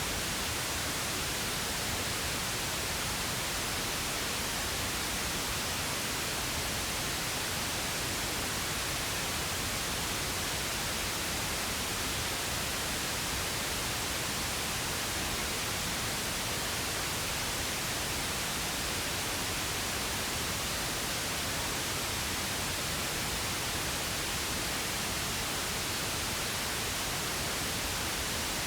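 Steady pink noise: an even, unchanging hiss spread across the whole range, with no breaks or events.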